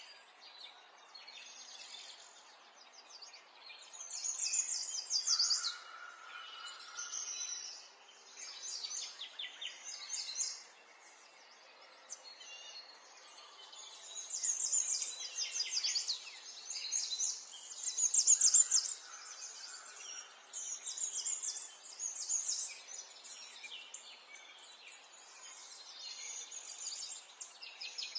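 Several birds singing, with rapid chirping phrases coming in bouts over a faint steady background hiss.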